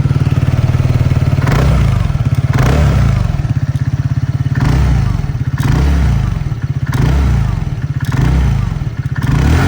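TVS NTORQ 150 scooter's 149.7cc single-cylinder engine heard through its exhaust, idling with a steady pulse and revved in short throttle blips roughly every one to two seconds, about seven times.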